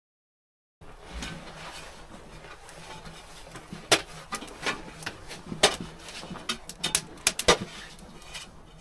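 Silent for about the first second, then a run of irregular sharp cracks and knocks, a few much louder than the rest in the second half.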